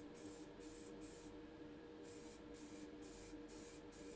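Faint short hisses of an aerosol spray can laying down gloss white paint, in quick bursts of about two to three a second with a short pause about a second and a half in. A steady faint hum lies underneath.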